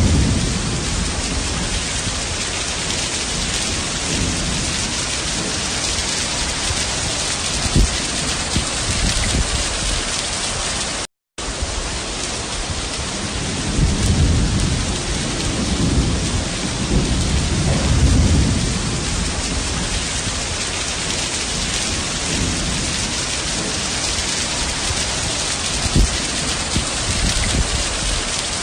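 Heavy rain pouring down steadily, with rolling thunder rumbling underneath, swelling most strongly about halfway through. Two sharp low knocks stand out, and the sound cuts out for an instant about eleven seconds in.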